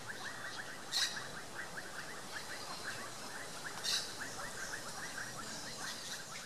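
Birds chirping in a dense, rapid, overlapping chorus, with two louder, sharper calls, one about a second in and one near four seconds in.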